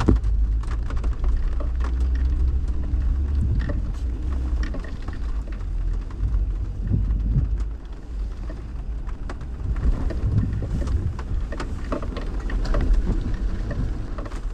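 Jeep working along a rough, wet trail: a steady low rumble with scattered knocks and a rain-like patter over it.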